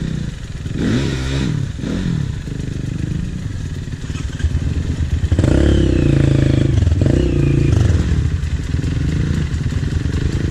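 Trail motorcycle engine revving up and easing off repeatedly, louder from about halfway through.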